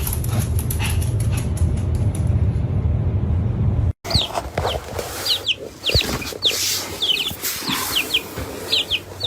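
A steady low rumble for about four seconds, then after a cut a run of short, high bird chirps, each falling in pitch, several a second.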